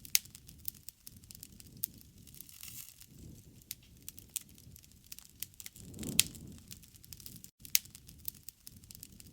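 Wood campfire burning, with irregular sharp pops and crackles over the soft low rush of the flames, which swells briefly about six seconds in.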